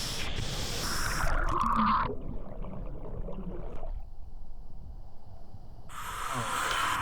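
Waterfall rushing steadily, with a low rumble under the hiss of falling water. From about two seconds in the hiss fades to a dull low rumble, and it comes back strongly about six seconds in.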